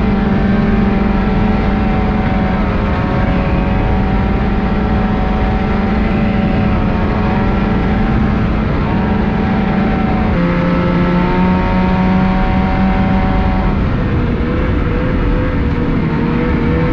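2019 Ski-Doo Renegade 600R snowmobile's two-stroke 600 E-TEC engine running at a steady, moderate throttle under way, over track and wind noise. The engine pitch steps down about ten seconds in and again a few seconds before the end.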